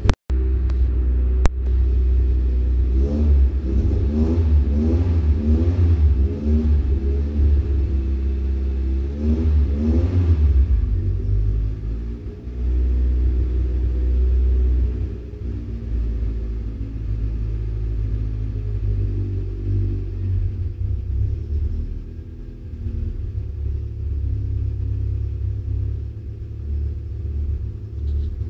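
VW Gol GL engine running on a Megasquirt aftermarket fuel-injection computer, heard from inside the car: a steady low rumble, with the engine note rising and falling several times between about three and ten seconds in.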